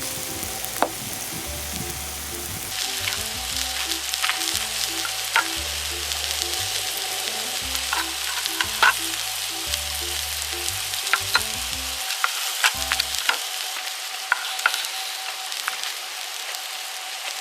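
Meat sizzling steadily on an iron griddle plate, with scattered sharp clicks of utensils moving and turning it.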